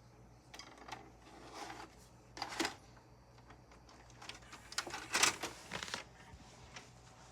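Hard plastic clicks and clatters of a VHS cassette and its case being handled, an irregular series of clacks with the loudest about five seconds in.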